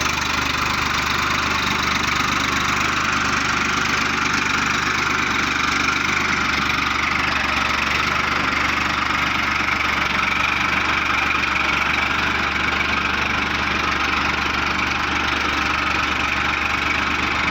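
Farmtrac tractor's diesel engine running steadily at an even speed.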